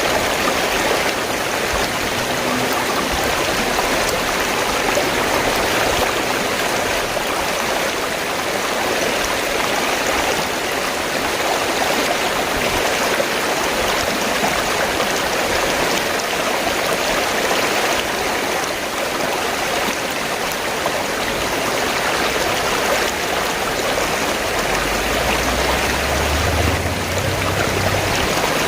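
River water flowing steadily over rocks in an even, continuous rush. A low rumble comes in near the end.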